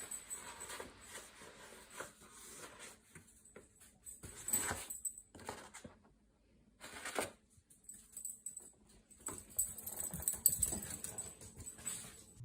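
A pet dog's sounds: a series of short, sharp bursts at irregular intervals, with fainter scuffling between them.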